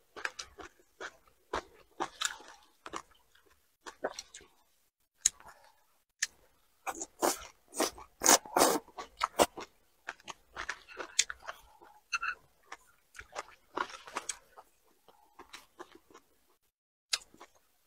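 Close-miked chewing of a mouthful of leafy green vegetables: wet crunching and mouth clicks in irregular bursts, busiest around the middle and thinning out near the end.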